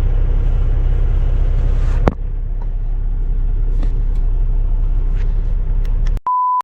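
Low steady rumble of an idling semi truck, heard from inside the cab, with a sharp click about two seconds in and a few faint ticks after it. Just after six seconds the rumble cuts off and a short, steady high beep sounds.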